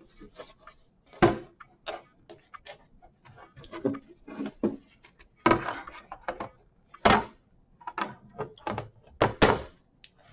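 Wooden round sign board being handled on a tabletop while ribbon is pulled through its holes: a series of irregular knocks and thunks with soft rustling between.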